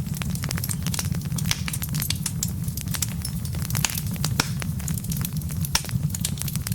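Wood logs burning, crackling with frequent sharp pops and snaps over a steady low rumble of the flames.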